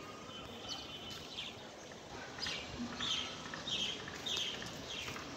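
A bird calling: a series of short, high notes, each sliding downward, repeated about every half second, over steady outdoor background noise.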